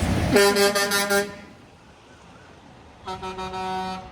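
A truck horn sounds twice, two steady one-second blasts about two seconds apart.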